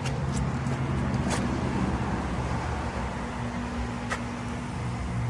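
A steady low hum with a few light clicks.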